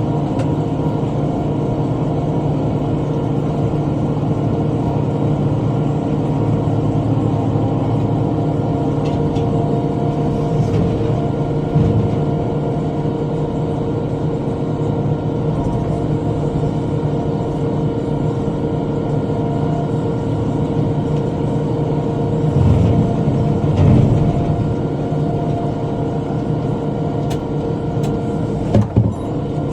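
Tractor engine running steadily under load with a rotary cutter (bush hog) turning, with a few short thumps about twelve seconds in, around two-thirds of the way through, and near the end.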